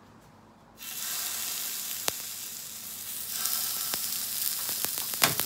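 Skewered dango (mochiko rice-flour dumplings) sizzling in a hot rectangular frying pan; the sizzle starts suddenly about a second in as they are laid in, then runs on steadily. A few sharp taps sound over it, the loudest near the end.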